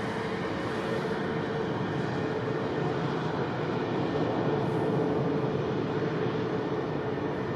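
Steady engine noise at an even level, with a faint humming tone running through it.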